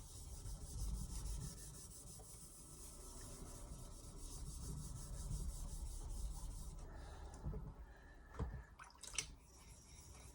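Carbon-steel knife blade stroked back and forth across a splash-and-go whetstone, a steady rasping scrape. The strokes stop about seven seconds in, followed by a couple of short knocks.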